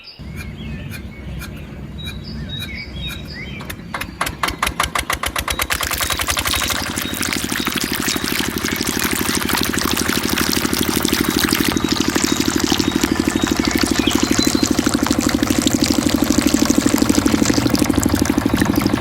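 Kubota RD85 single-cylinder diesel engine starting: a few seconds in, separate firing strokes quicken as it catches, then it runs steadily and grows louder as it picks up speed.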